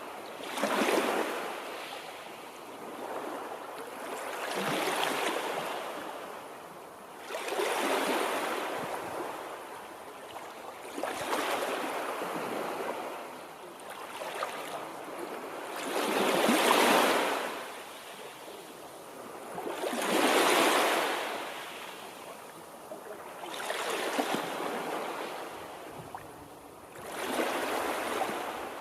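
Waves washing onto a shore, about eight surges that rise and fall every few seconds.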